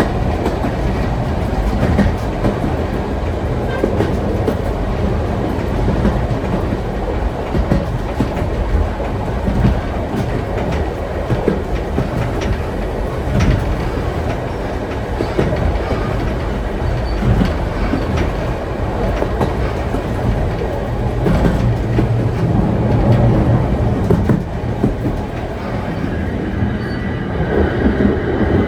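Vintage train rolling along the track: a steady rumble with the wheels clicking and knocking over the rails, and a brief high squeal near the end.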